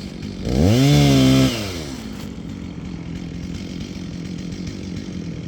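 Two-stroke chainsaw revved up about half a second in, held high for about a second, then dropped back to a steady idle.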